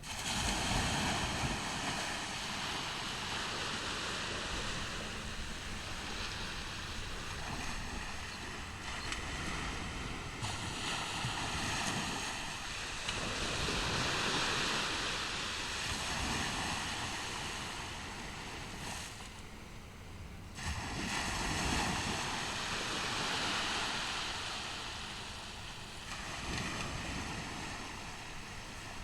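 Ocean surf breaking on a beach: a continuous wash of waves that swells and ebbs, with the loudest waves a little before the middle and again about three quarters through, and a short lull between them. It comes in suddenly at the very start.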